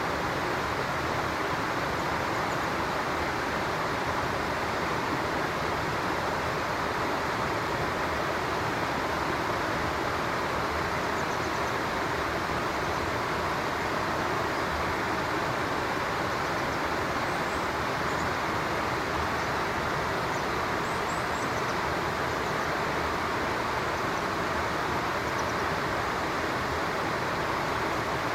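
Steady rush of flowing stream water, unchanging throughout, with a few faint high bird chirps about two-thirds of the way in.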